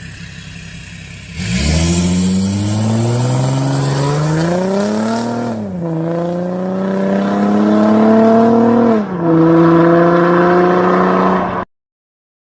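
Straight-piped exhaust of an Audi A5 3.0 quattro's V6 under hard acceleration. The throttle opens about a second and a half in, and the engine note climbs steadily in pitch. It drops twice, at about five and a half and nine seconds in, as the car shifts up, then holds steady until the sound cuts off abruptly.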